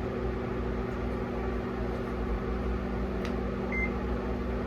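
Steady low electrical hum of a running appliance or fan, with a faint click a little over three seconds in and a short high beep soon after.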